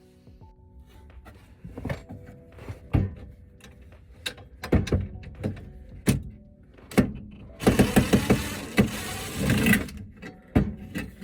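Irregular knocks and thuds over background music, with a dense rapid rattling and banging for about two seconds a little past the middle.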